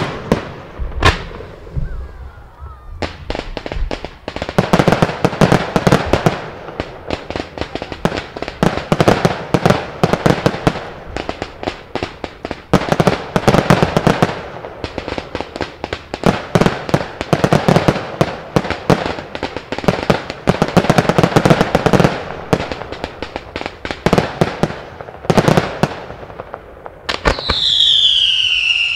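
Fireworks display: a single bang, then from about three seconds in a rapid, continuous barrage of shell bursts and crackling reports. Near the end a loud whistle falls steadily in pitch as whistling effects go up.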